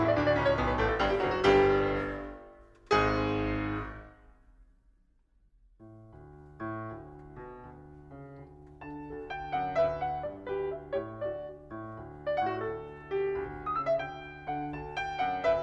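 Solo piano background music. A loud chordal passage ends on a chord about three seconds in that dies away, and after a short pause a quieter passage of quick notes begins.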